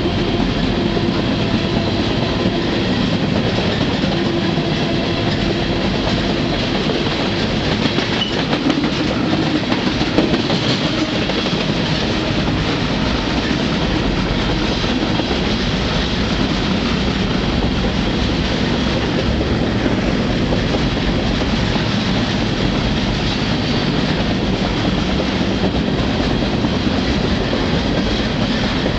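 Freight train rolling steadily, heard from aboard one of its cars: a continuous noise of steel wheels running on the rails.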